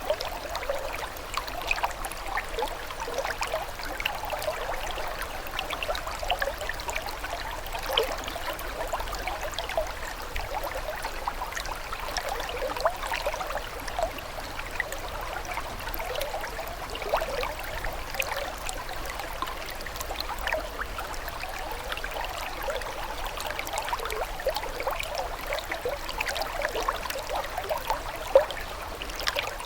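Running water trickling and gurgling continuously, full of small splashes and bubbling droplets, with a few slightly louder splashes here and there.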